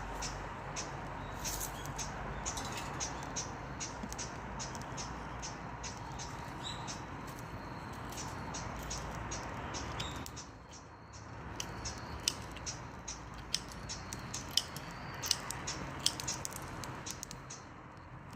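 Dry perilla branches burning in a Solo Stove wood stove: many quick irregular crackles and pops over a steady rush of flame. The rush dips briefly a little past halfway.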